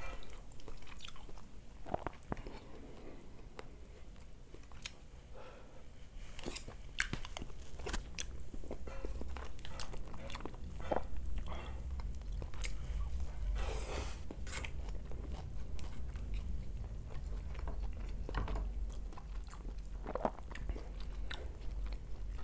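A person chewing and biting food close to the microphone: irregular crunches and sharp mouth clicks throughout, between stretches of softer chewing.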